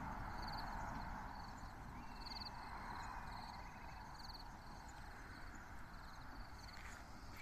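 Diesel railcar's rumble fading away after it passes the level crossing. Short high trilled chirps from a calling animal repeat about once a second over it.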